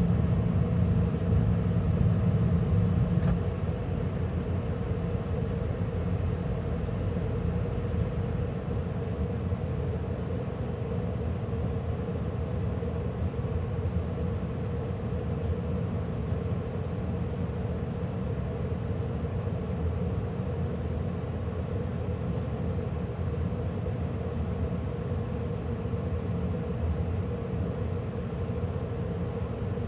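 Carrier gas furnace shutting down at the end of a heating call. The gas burners cut out with a click about three seconds in, and the running noise drops. The draft inducer motor stops around eight seconds in, leaving the circulating blower running steadily.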